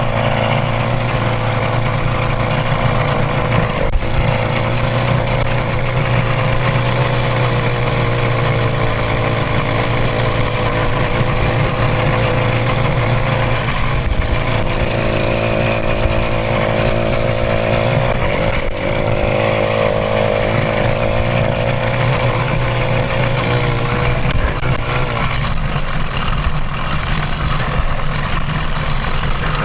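Motorized bicycle's bone-stock 66cc two-stroke engine running steadily under way, its pitch shifting a little at the start and again near the end.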